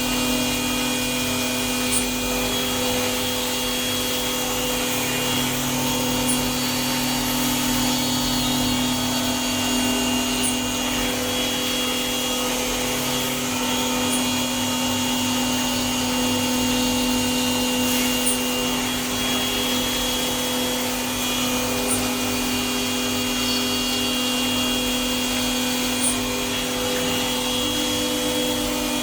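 A CNC machine running with a steady mechanical hum made of several fixed tones, and a faint short tick about every four seconds.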